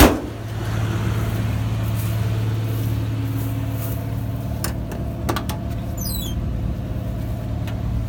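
A pickup truck door slamming shut, then the truck's engine idling steadily. A few light clicks and a short squeak come about five to six seconds in.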